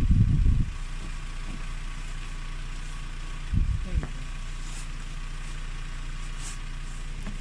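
A steady low engine-like hum, as of an idling motor, with low rumbling thumps at the start and again about three and a half seconds in.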